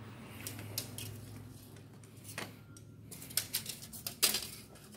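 Scattered light metallic clicks and clinks of small metal tools and parts being handled on a workbench, the loudest near the end, over a faint steady hum.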